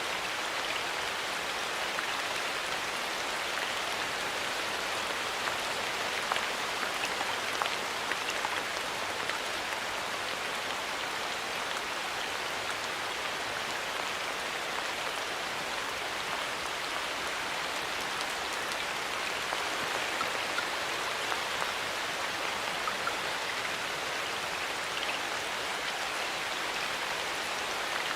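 Steady rain falling in a forest, with the patter of individual drops hitting leaves and ground.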